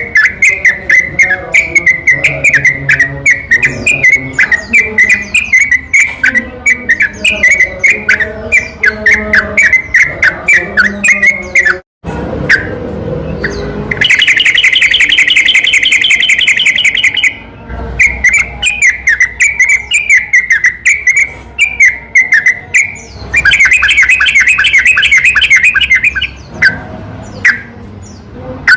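Recorded yellow-vented bulbul (trucukan) song: rapid, repeated bright chirps broken twice by long, very fast rattling trills. There is a short break about twelve seconds in.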